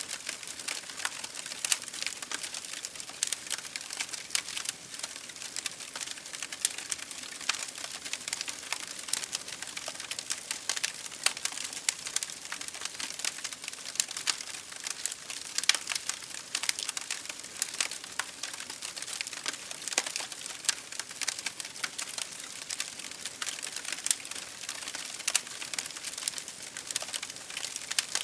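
Wood fire burning in an open fireplace: a steady stream of irregular sharp crackles and pops over a soft hiss.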